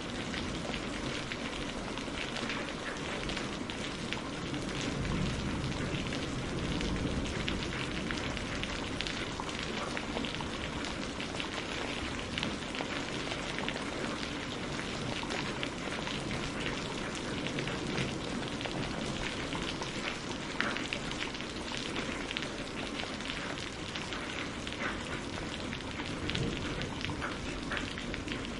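Steady rain falling, with many small drop ticks over a continuous patter.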